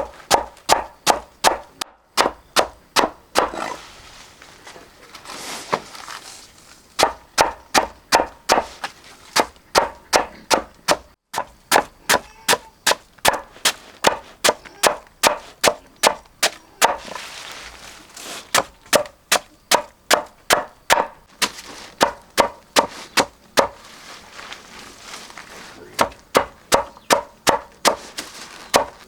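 Chopping purple taro plants with a knife on a wooden block: quick, even strokes about three a second, in runs of several seconds broken by short pauses.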